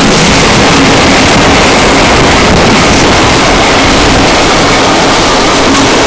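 Loud, steady wind rushing over the microphone on a moving train, over the train's running rumble.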